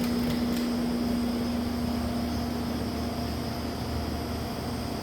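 Harbor Breeze Classic Style 52-inch ceiling fan running on medium speed, with a steady rush of moving air and a motor hum that fades about halfway through. There are a couple of faint clicks near the start. The owner says the fan has a weak capacitor.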